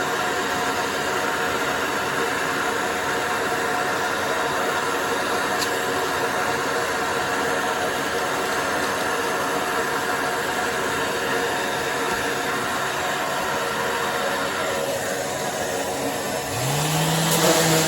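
Electric random orbital sander running with a steady whirring noise. Near the end, a motor spins up with a short rising whine that settles into a steady hum.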